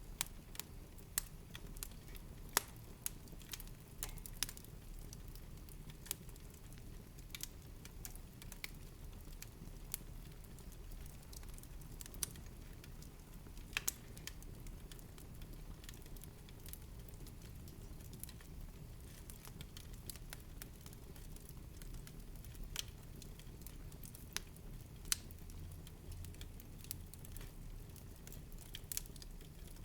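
Wood fire in a fireplace crackling: irregular sharp pops and snaps over a steady low rumble of burning, the pops coming thicker in the first half and sparser later.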